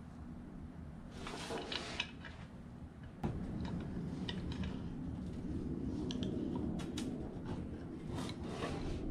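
Light metallic clicks and clinks of small metal fan parts being handled and fitted, such as a washer and nut going onto the ceiling fan's housing, with one sharper click a little after 3 seconds in.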